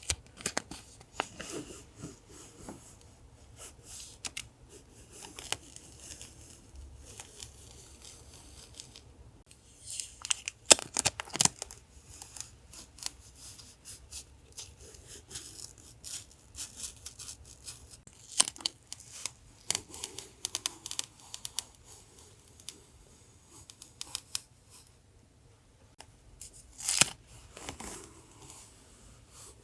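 Paper and stickers being handled for a collage: scattered crinkles, rustles and short tearing sounds, with louder clusters about a third of the way in and again near the end.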